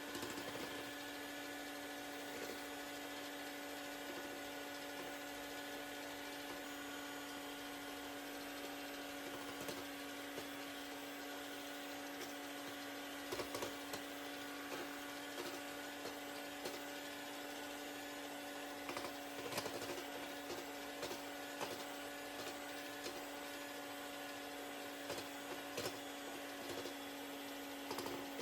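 A steady electrical hum, with scattered light clicks and knocks of utensils being handled.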